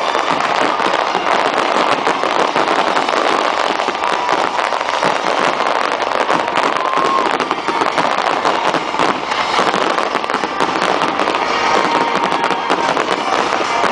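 New Year's Eve fireworks crackling and popping densely and without a break: many rapid small bangs run together, with a few faint short whistles.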